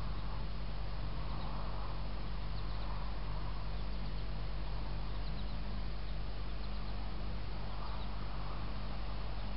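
A few faint, short bird chirps over a steady low hum and hiss.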